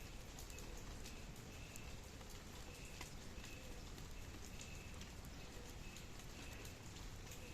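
Steady rain with scattered drops striking close by, and a short high note repeating about once a second from an animal calling.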